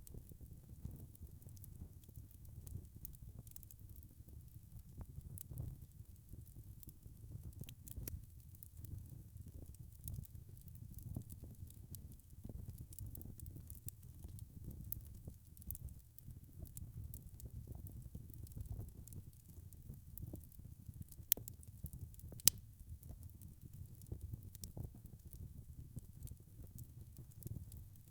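Wood fire burning in a fireplace: a steady low rumble of flames with continual small crackles, and two sharper pops about a second apart a little past the middle.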